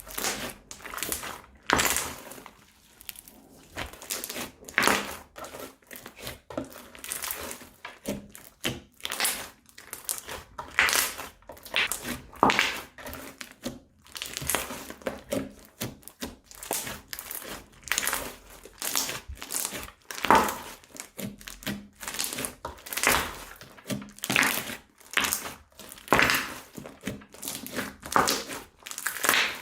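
Slime being pressed and worked, giving irregular sharp pops and crackles in clusters every second or two.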